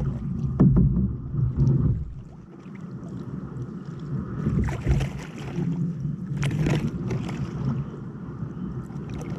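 A kayak being paddled: paddle strokes dipping into the water, with a few short, sharp splashes one to a few seconds apart.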